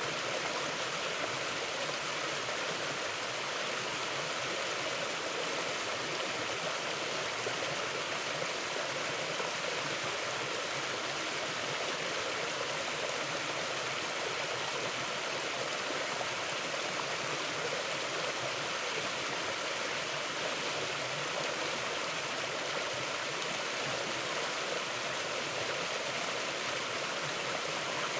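Mountain river flowing over rocks: a steady, even rush of water with no breaks.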